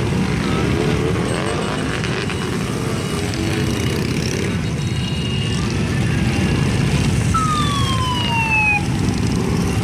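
Harley-Davidson V-twin motorcycles rumbling past in a parade, a dense, steady low engine noise. Near the end, a siren-like tone falls in pitch for about a second and a half.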